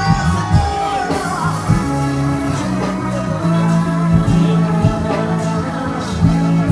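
Live band music with held bass notes and a singing voice over it.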